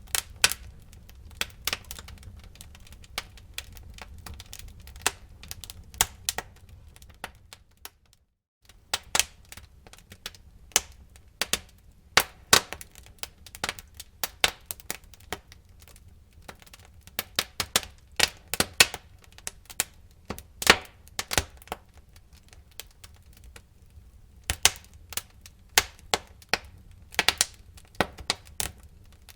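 Wood fire crackling in a fireplace: many sharp, irregular pops and snaps over a steady low rumble of the flames. The sound cuts out briefly about eight seconds in.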